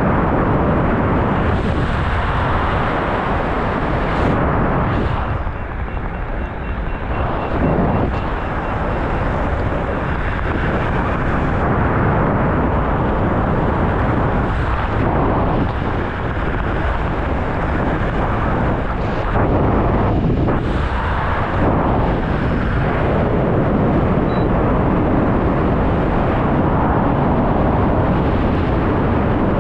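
Loud, steady rushing wind buffeting the camera microphone, surging and dipping every few seconds.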